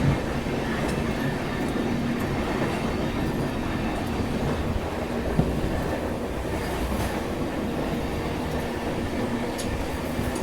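Passenger train coaches of the Hirakhand Express running along the track: a steady rumble of wheels on rail with a faint hum and a few light clicks.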